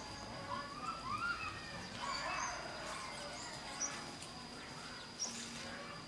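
Songbirds calling in the trees: short warbling phrases, busiest in the first few seconds, with sharp high chirps about two, four and five seconds in, over a thin steady high tone.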